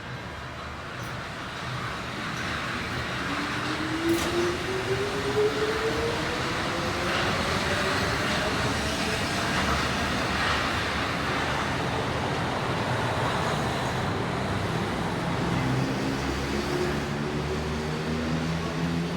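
Inside a resistance-controlled Tokyo Monorail 1000 series car pulling away. The traction motors' hum rises steadily in pitch as the train accelerates, over steady running noise, and a second rising motor note comes in near the end.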